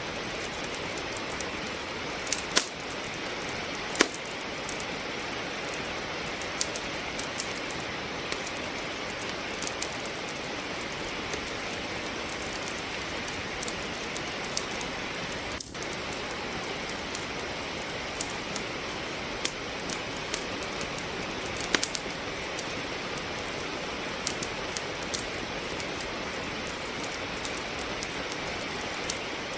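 Steady rain with a wood fire crackling in a fireplace: an even hiss of rainfall, broken by scattered sharp pops and snaps from the burning logs, the loudest about two and a half, four and twenty-two seconds in.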